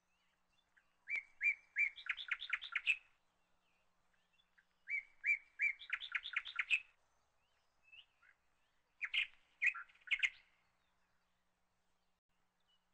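A small bird singing three phrases, each a few separate chirps followed by a quick trill.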